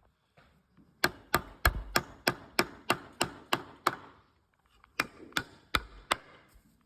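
Hammer driving nails into pallet wood: two runs of sharp blows, about three a second, the first about ten blows long, then a short pause and four more.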